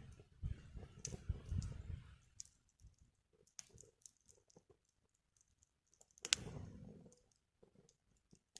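Wood fire crackling: scattered sharp snaps and pops, with a louder pop about six seconds in. A low rumble runs under the crackle for the first two seconds.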